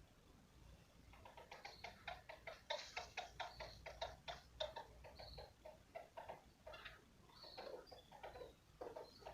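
An animal's rapid series of short, clicking calls, about five a second, starting about a second in and thinning to a few scattered notes near the end.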